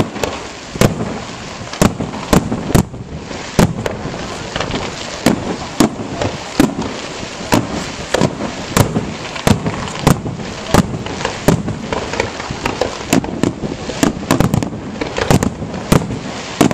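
Fireworks display: a barrage of aerial shell bursts going off in quick irregular succession, sharp bangs several a second over continuous crackling, with a rapid cluster of reports near the end.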